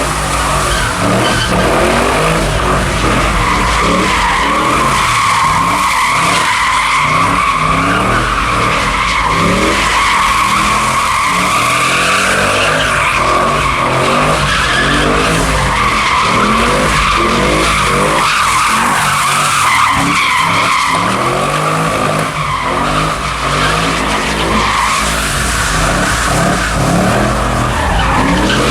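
Car doing donuts: tyres squealing continuously, the pitch wavering, over a V8-type engine revving up and down again and again.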